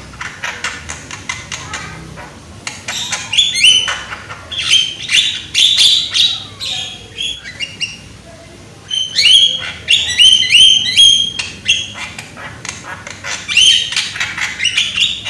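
Javan myna (jalak kebo) singing loudly: rapid chattering phrases of sharp clicks and short hooked whistled notes, coming in bursts of a few seconds with brief pauses between.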